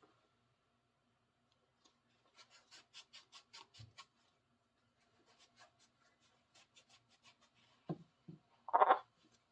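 Cloth towel rubbing back and forth over a grimy steel adjustable wrench, wiping it down after a spray of Windex: quick strokes about six a second, then slower, fainter strokes. Near the end come two low thumps and a short, louder burst.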